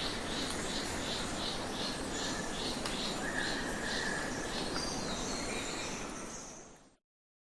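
Rhythmic high chirping, about three chirps a second, like crickets or other insects, over a steady outdoor hiss; it fades out about six seconds in.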